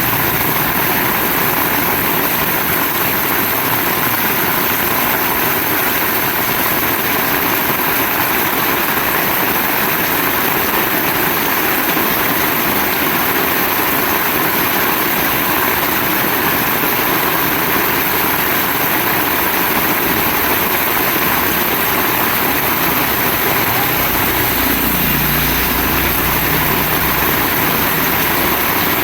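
Heavy rain pouring steadily, a dense even hiss with no letup. A low hum comes in about three-quarters of the way through.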